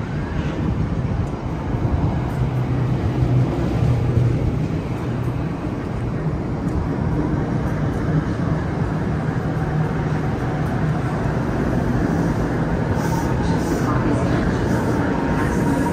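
New Jersey Transit electric multiple-unit commuter train passing at speed: a steady rumble of wheels on rail with a low hum.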